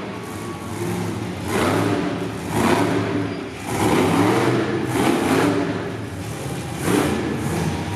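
Monster truck engine revving hard in repeated bursts, its pitch climbing and falling about five times.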